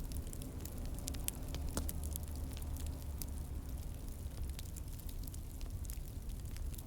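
Wood fire burning in a fireplace: a low steady rumble with irregular sharp pops and crackles, a few louder snaps about one to two seconds in.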